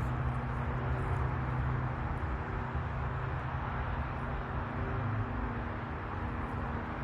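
Steady rumble of road traffic from a nearby highway, with a low engine hum that fades out about five seconds in.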